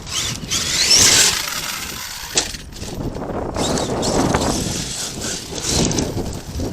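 Arrma Kraton 8S RC monster truck running over rough ground. Its brushless motor whines up in pitch as it accelerates in the first second, and there is a sharp knock a little over two seconds in.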